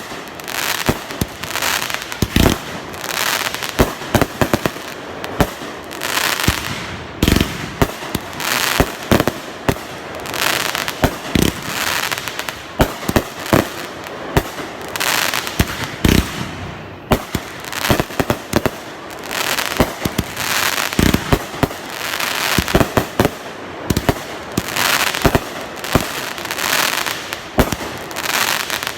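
Fireworks going off without pause: many sharp bangs, sometimes several a second, over a dense crackling hiss that swells and fades in waves.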